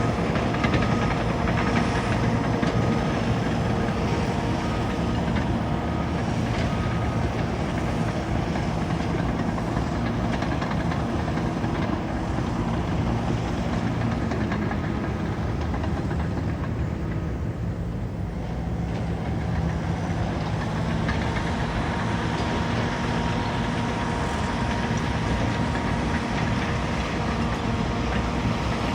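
Caterpillar bulldozer's diesel engine running steadily while working, easing off for a couple of seconds about two-thirds of the way through and then picking back up. A reversing alarm beeps at the start.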